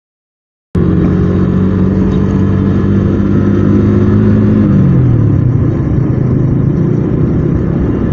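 Yamaha Vixion's single-cylinder engine running under way, cutting in suddenly about a second in over steady road noise; its pitch holds, then drops about five seconds in as the engine slows.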